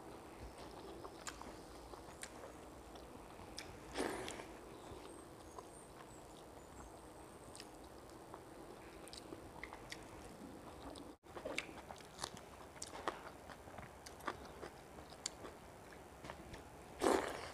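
A person eating water-soaked rice by hand, with egg bhujia and cooked greens: faint chewing and small wet mouth clicks, with two louder mouth noises, one about four seconds in and one near the end.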